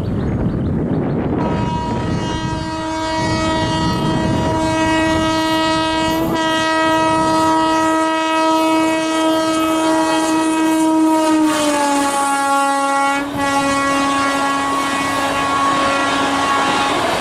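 Train horn held in one long blast of about fifteen seconds as the express passes, its pitch dropping about twelve seconds in as the locomotive goes by, over the rumble of the train on the rails.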